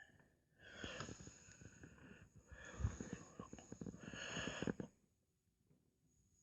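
Fireworks going off: about four seconds of hissing, crackling and popping, with one heavier bang near the middle.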